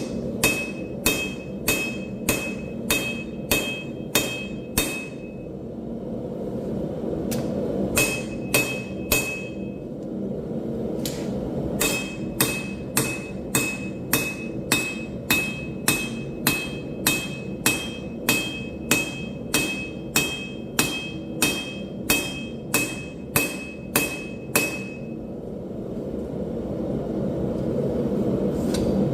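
Hand hammer forging hot steel on an anvil: runs of blows about two to three a second, each with a bright ring. The hammering stops for a few seconds around five seconds in, briefly around ten, and again near the end, over a steady low roar.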